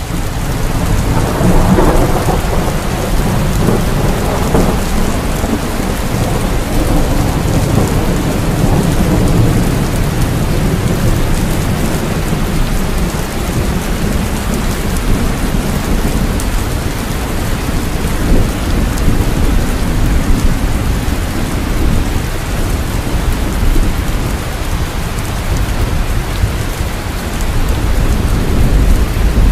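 Steady heavy rain with low rolling thunder rumbling underneath, swelling loudest a second or two in and then rumbling on.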